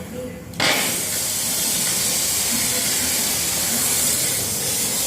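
Propane gas hissing steadily from a valve or nozzle, switching on abruptly about half a second in.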